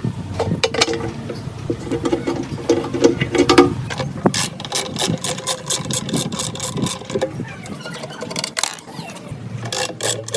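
Hand tools working on metal: irregular knocks and squeaks at first, then a run of rapid sharp clicks, several a second, from about four seconds in.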